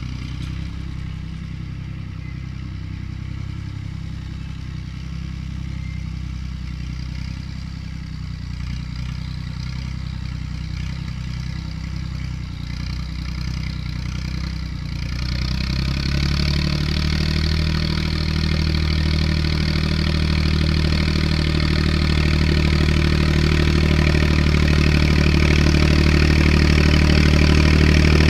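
Tractor engine running steadily; a little past halfway it gets louder and rises in pitch as it is revved up, then holds at the higher speed.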